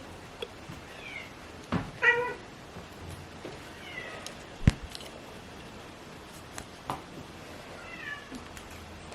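Domestic cat meowing: one clear meow about two seconds in and a few fainter, short falling mews, with a sharp click near the middle.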